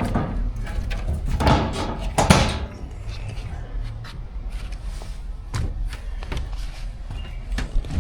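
Storage hatch lids on a jon boat's deck being opened and shut: a few knocks and clunks, the loudest two about one and a half and two and a half seconds in, over a low rumble.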